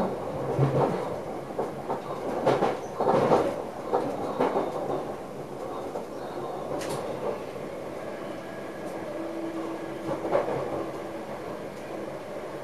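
Electric passenger train running on the rails, heard from inside the driver's cab: a run of knocks as the wheels pass over track joints in the first few seconds, then a steadier rumble with a sharp click and one more knock.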